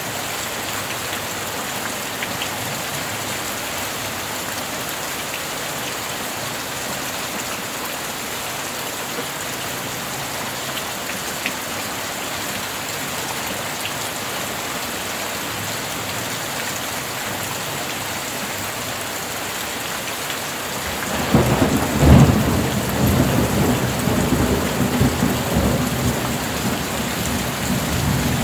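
Steady rain, then about 21 seconds in a thunderclap breaks in, loudest just after it starts, and rumbles on through the rest.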